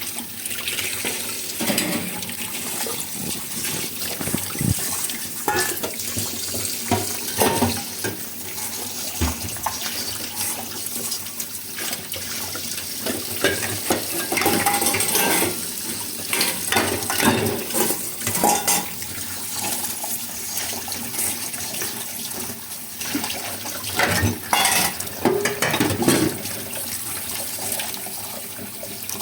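Washing dishes under a running tap: water pouring steadily into the sink while dishes and cutlery clink and knock against each other and the sink.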